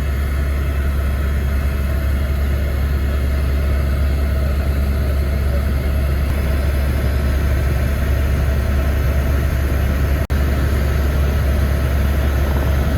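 Loud, steady engine drone with a strong low hum, heard from inside a vehicle, broken by a momentary dropout about ten seconds in.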